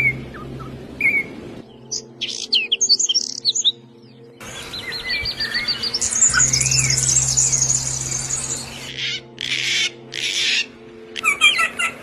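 Small songbirds chirping, with a long rapid high trill in the middle and a few harsher bursts near the end, over a soft steady background music drone.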